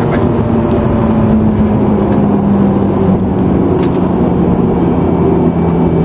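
Turbocharged four-cylinder car engine heard from inside the cabin while driving, its note slowly falling in pitch as the car eases off and slows, over steady road and tyre noise.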